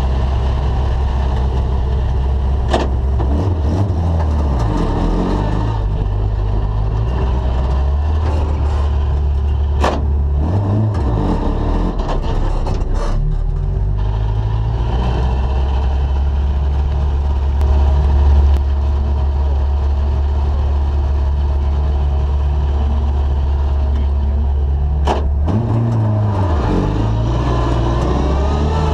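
Ford Escort RS2000 rally car's engine heard from inside the cabin, running at low revs as the car creeps forward. The revs rise and fall briefly a few times, around 4, 10–11 and 26–27 seconds in. A few sharp clicks come about 3, 10 and 25 seconds in.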